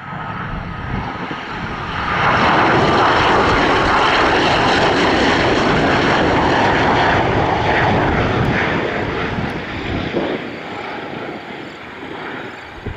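Northrop T-38 Talon jet trainer on landing approach, its twin J85 turbojets swelling to a loud steady rush about two seconds in and fading after about ten seconds. A cricket chirps faintly in the background.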